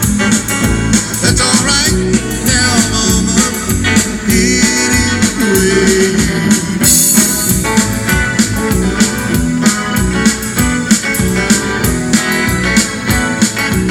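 Band music: an upbeat blues-rock tune on guitar with bass and drums keeping a steady beat.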